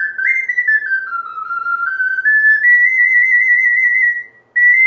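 Soprano C (SC) ocarina playing a phrase. The notes step down, climb back up to a long held high note, break off briefly, then another note starts near the end.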